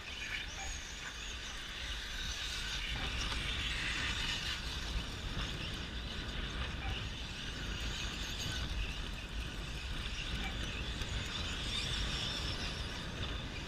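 Electric 1/10-scale RC short-course trucks racing on a dirt track: a steady, shifting whir of brushless motors and tyres on dirt, with a low rumble underneath.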